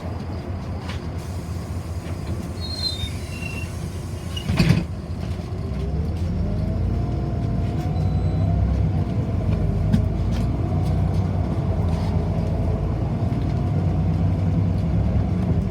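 City bus ride heard from inside: steady engine and road noise with a sharp knock about four and a half seconds in. From about six seconds in the drive noise grows louder, with a wavering whine over it.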